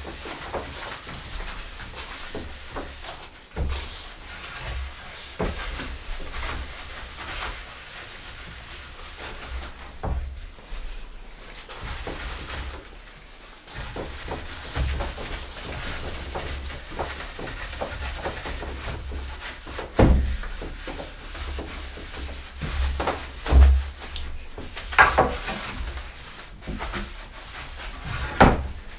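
A rag rubbing over freshly oiled wood, wiping off the excess oil, with several knocks of the wood being handled.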